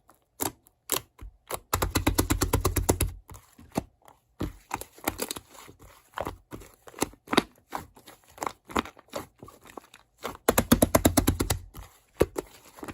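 Paper being handled, rustled and crumpled, with scattered clicks and two bursts of rapid crackling, one about two seconds in and one near the end.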